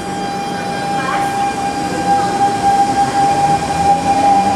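SMRT C651 train's GTO-VVVF traction equipment starting the train off: a steady high whine over a rumble, growing louder.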